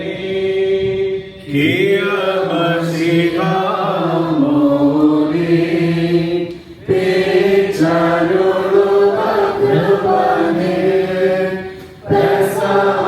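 Malankara Orthodox liturgical chant: voices singing long, held phrases, with brief breaks for breath between them.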